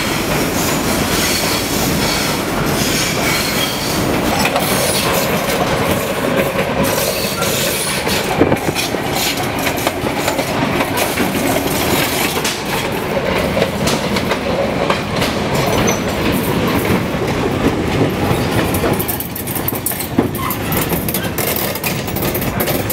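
Old Sarria electric railcar running along the track, a steady loud rumble with the wheels clattering over the rails; it eases off a little near the end.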